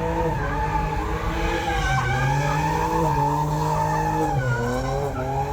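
Car doing a burnout: the engine is held at high revs while the spinning tires squeal steadily. The revs dip briefly about four seconds in, then climb back.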